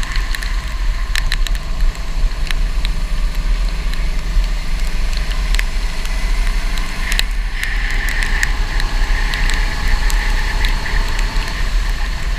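Go-kart running on a wet track: a steady engine drone over a loud low rumble, with scattered crackles and ticks of water spray.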